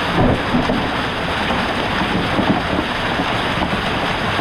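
Hail and rain pelting the chicken coop in a heavy storm: a dense, steady rush with wind.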